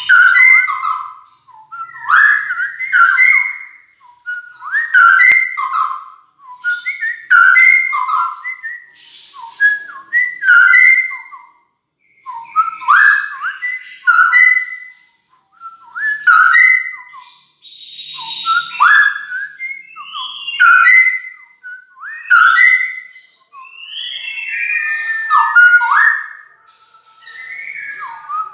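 Straw-headed bulbul singing loudly and steadily: rich, bubbling whistled phrases about a second long, repeated one after another with short pauses.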